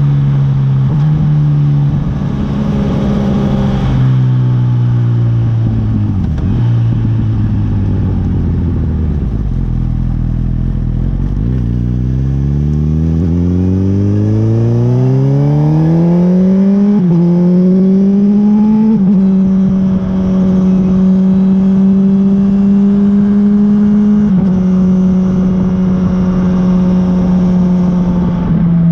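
Honda CB1000R inline-four engine on the move: it runs steadily, slows to a low pitch, then accelerates in a long rising pull. Its pitch drops suddenly at each gear change and then holds steady at cruising speed.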